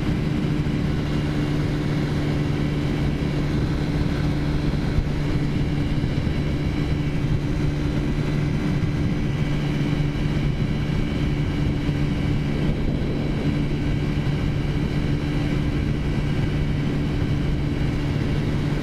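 Taotao 50cc four-stroke scooter engine running at a steady cruise, holding an even pitch, with wind noise on the microphone.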